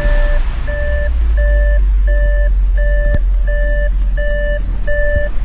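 Audi C7 S6's 4.0-litre twin-turbo V8 firing up and running on its first start after a turbo swap, heard from inside the cabin. Over it a dashboard warning chime beeps in two tones about every 0.7 s, for a cooling system fault: the engine has no coolant in it.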